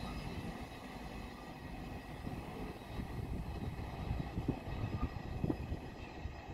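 Low, steady rumble of a train at a station platform, with a few light knocks.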